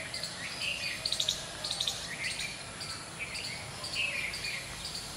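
Small birds chirping, short high calls repeating throughout, with a few sharp clicks about a second and two seconds in.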